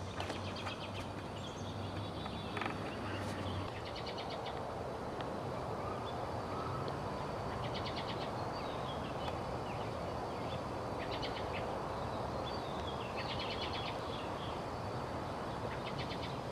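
A small bird singing short, rapid trills, repeated every two to three seconds, over a steady outdoor background noise.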